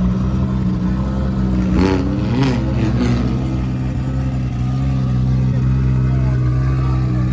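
Car engine running loud and steady at held revs, its pitch not changing, with a few brief shouts or sharp noises about two to three seconds in.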